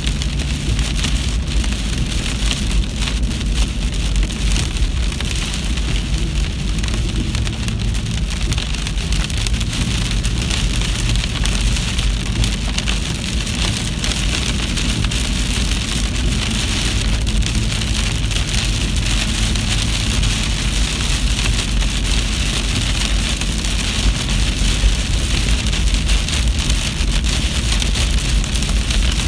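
Steady rain falling during a storm, with a constant low rumble underneath.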